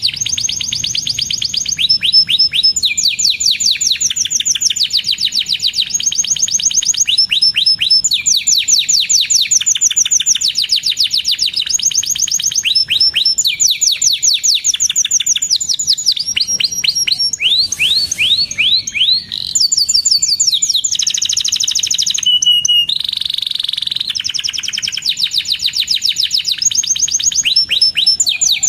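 Domestic canary singing a long, loud song of fast trills, rapid runs of repeated chirping notes that switch from one phrase to the next every second or two, with a few held whistles in between.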